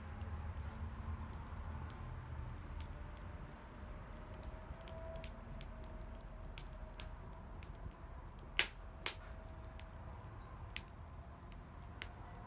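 Wood campfire crackling, with irregular sharp pops and snaps; two louder pops in quick succession a little past the middle.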